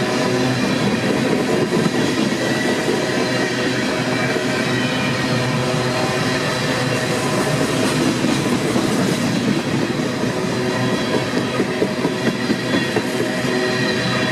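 Freight train passing, a dense continuous rail sound with several steady tones over it.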